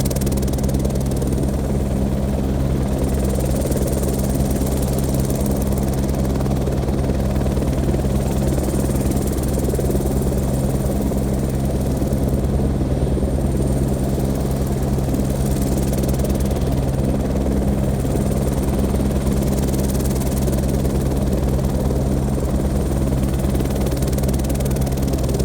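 Airbus H125 helicopter running steadily: a deep, even rotor and engine hum with a faint high turbine whine above it, holding unchanged throughout.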